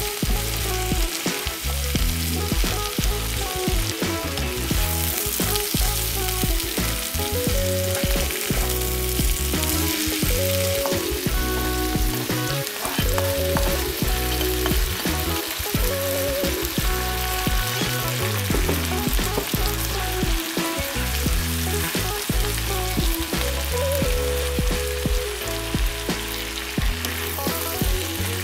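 Sliced vegetables (zucchini, carrot, bell pepper, mushrooms and onion) sizzling steadily in hot oil and butter in a frying pan, with a spatula stirring and scraping through them.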